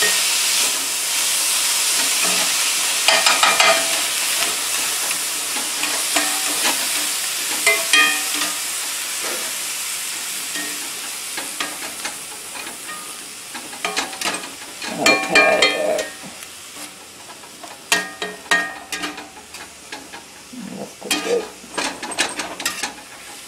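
Diced pork and green onions sizzling in a cast-iron skillet, stirred with a spatula that scrapes and knocks against the pan every few seconds. The sizzle slowly dies down.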